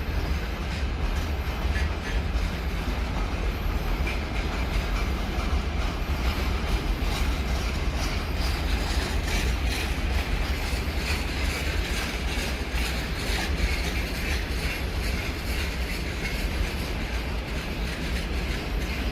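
Train passing along the track: a steady, loud rumble of wheels on rails with no break.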